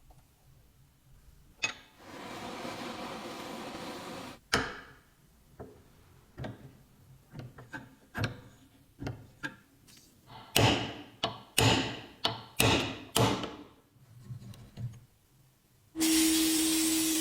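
Hand-tool workshop work. A couple of seconds of scraping or rubbing, a sharp knock, then scattered clicks build into a run of about six sharp hammer-like strikes a little over half a second apart. Near the end a steady hum with hiss starts suddenly.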